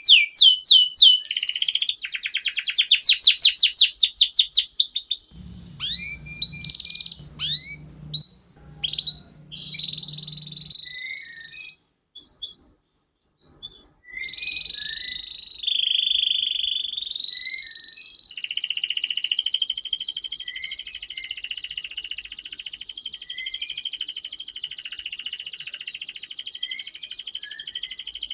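Domestic canary singing: fast runs of repeated high sweeping notes, then scattered chips with short breaks, then a long unbroken rolling trill from about two-thirds in.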